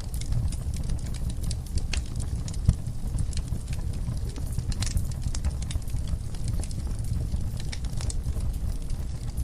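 Wood fire burning in a fireplace, crackling with many small irregular pops over a steady low rumble of the flames, with one louder pop a little under three seconds in.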